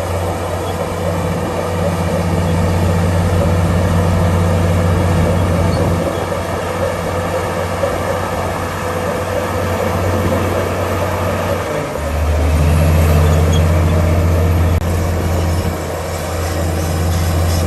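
Komatsu D65PX bulldozer's diesel engine running steadily. About twelve seconds in it gets louder and its note deepens for a few seconds.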